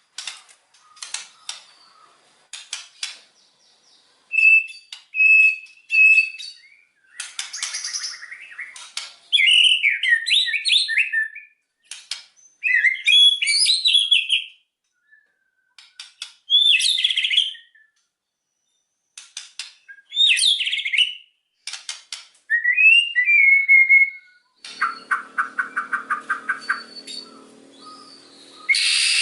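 White-rumped shama (murai batu) singing: quick clusters of clicking notes, a few clear repeated whistles, and fast warbled phrases with short pauses between them. Near the end comes a fast run of repeated rattling notes.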